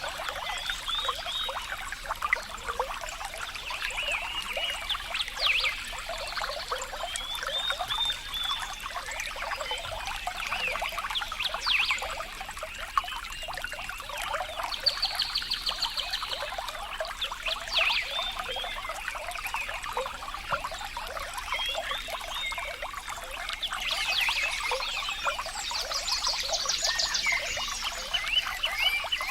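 A small stream trickling and bubbling steadily over stones. Short, rapidly pulsed animal calls come in about halfway through and again near the end.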